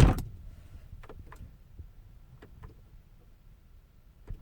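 A car door shutting with a thump, followed by a few faint clicks and ticks, and a soft knock near the end.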